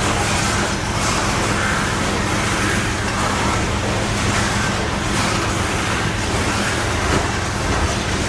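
Canadian Pacific coal train rolling past: a steady rumble with a low, even hum underneath.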